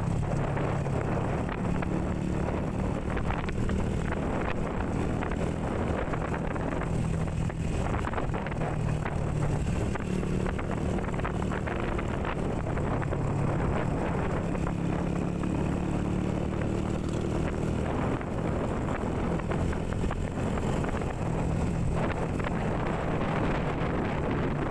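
Motorcycle engine running steadily while riding, its pitch drifting slightly up and down, with wind buffeting the microphone.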